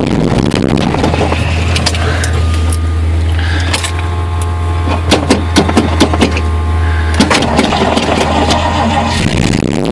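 Ford 302 small-block V8 being cranked over by its starter in a cold start on choke, the engine struggling to catch. A run of sharp pops comes about five to seven seconds in.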